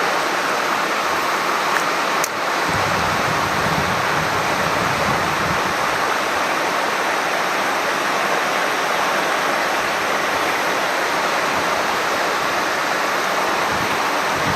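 Mountain stream water running, a steady even rush.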